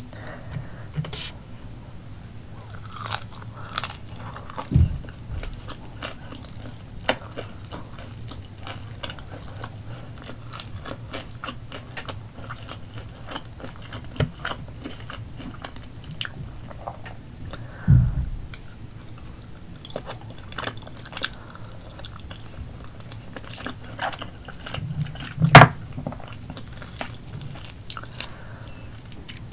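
Close-miked chewing and biting of grilled chicken eaten by hand: wet mouth sounds and small crunches. Three louder knocks come about 5, 18 and 25 seconds in, the last the loudest.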